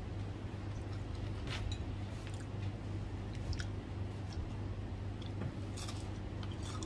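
Close-up chewing and biting of rice and fried squid, with scattered small crunches and mouth clicks, over a steady low hum.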